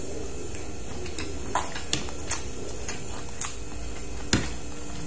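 A person's chewing and lip-smacking while eating with the hands: about five short sharp smacks and clicks, the loudest about four seconds in, over a steady low hum.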